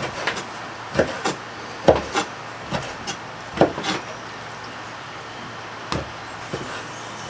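Irregular sharp knocks on wood, about ten in all, most of them in the first four seconds and sparser after.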